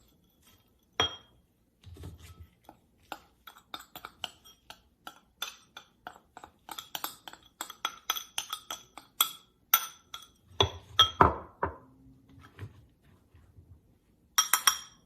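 A spoon clinking and tapping again and again against a dish while spooning oat topping onto apple slices. The clinks are short and ringing and come thick and irregular through the middle, with a last few near the end.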